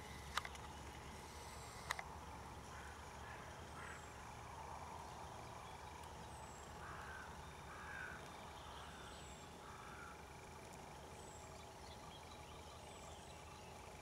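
Faint woodland ambience with distant birds: a thin, high, falling call repeated every second or so, and a few hoarse calls around the middle. Two sharp clicks sound early on.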